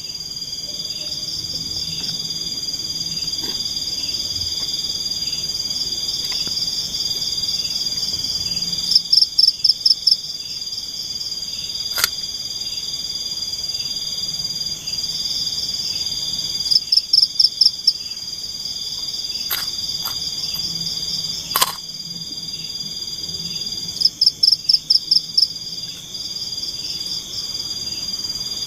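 Steady, high-pitched chorus of night forest insects. A louder call of about seven rapid pulses repeats three times, roughly every seven to eight seconds, and there are a few sharp clicks.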